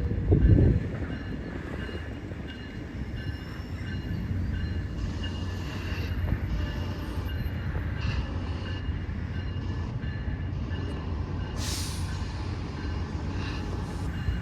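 A train rolling past with a steady low rumble from the cars, thin high tones of wheel squeal riding over it. A loud low gust of noise comes about half a second in, and a short sharp hiss near the end.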